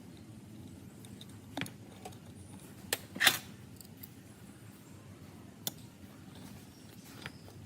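About five scattered sharp clicks and knocks, the loudest a little over three seconds in, over a low steady hum.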